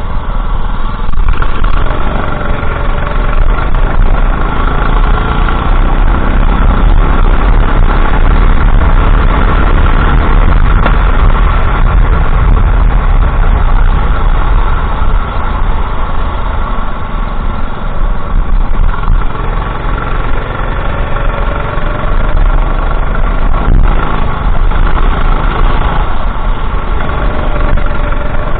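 Racing kart engine running hard around the circuit, heard onboard, its pitch rising and falling with the throttle over a heavy, constant low rumble.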